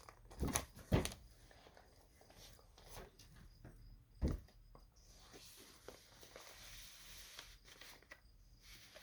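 Handling noise from a record's packaging and its download card: a few soft knocks and taps, the clearest about half a second in, at one second and about four seconds in, with small ticks between over faint room noise.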